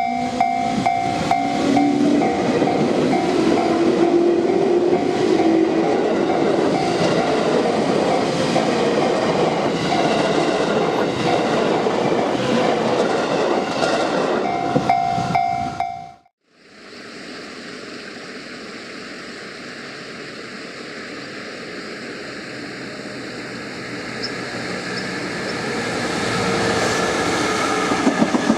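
A JR Central 211/313-series electric multiple-unit train running past, with rhythmic wheel clatter and steady tones, cut off suddenly about 16 seconds in. A freight train hauled by an EF66 electric locomotive then approaches, growing louder, with wheel clatter starting near the end.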